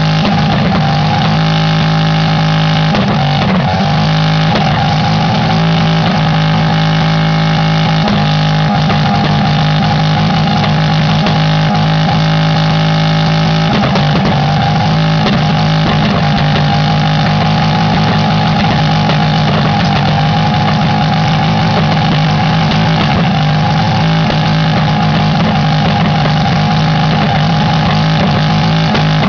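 A 2.0-litre Peugeot four-cylinder engine run with no load and held at high revs, a loud, steady engine note with only slight wavers in pitch, during an engine burnout in which it is deliberately run flat out until it fails.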